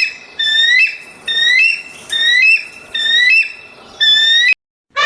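A bird calling repeatedly: about six short, rising, whistle-like notes, one every second or less, that stop abruptly near the end.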